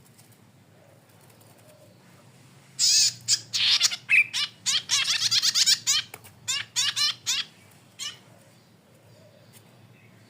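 Cici padi kepala merah, a cisticola, singing a loud run of rapid, wavering high notes that starts about three seconds in and lasts about four and a half seconds. One short call follows a little later.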